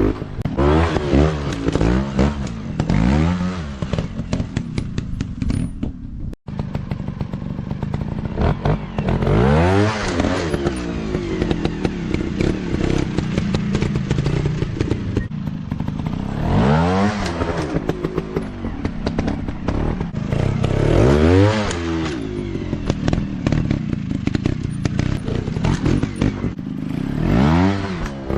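Off-road motorcycle engine revving up and falling back again and again while being ridden: quick throttle blips over the first few seconds, then longer surges every few seconds. The sound cuts out for a moment about six seconds in.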